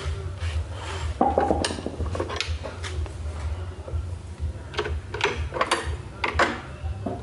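Hard metal objects clinking, knocking and scraping against each other in irregular handling, with a brief ringing clatter about a second in.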